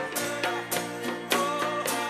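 Live worship band music: guitar over a steady beat with sharp strokes a little under twice a second, and singing voices.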